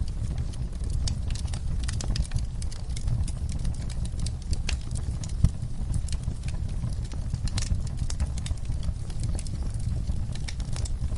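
Fireplace fire crackling: a steady low rumble of flames with frequent, irregular sharp pops and snaps.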